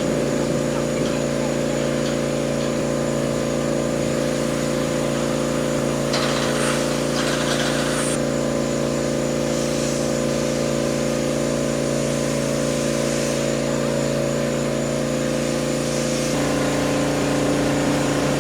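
An engine running steadily at a constant speed, its note shifting slightly near the end.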